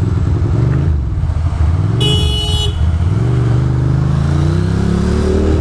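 Ducati Monster 620's air-cooled L-twin engine dropping in revs and then accelerating with a steady rise in pitch. A vehicle horn sounds once, for under a second, about two seconds in.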